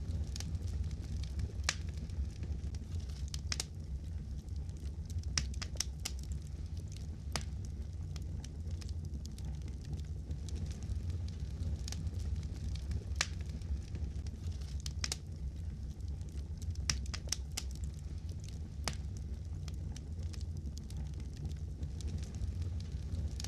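Wood fire crackling in a fireplace: a steady low rumble of flames under irregular sharp pops and snaps, several in quick clusters.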